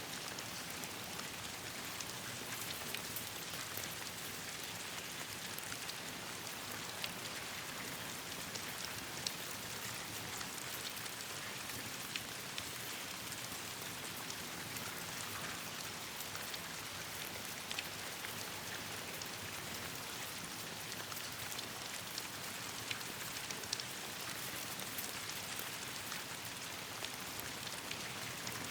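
Steady rain falling, an even hiss with many scattered sharp ticks and pops throughout.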